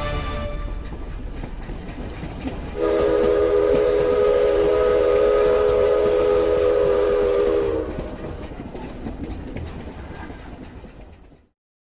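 Train rumbling along, with a train horn blowing one long chord of several notes for about five seconds, starting about three seconds in. The rumble then fades away.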